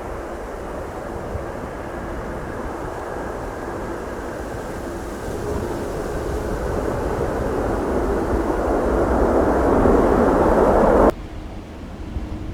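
Boeing 777 jet on approach, its engine noise growing steadily louder as it nears, with gusty wind rumbling on the microphone. The jet sound cuts off abruptly near the end.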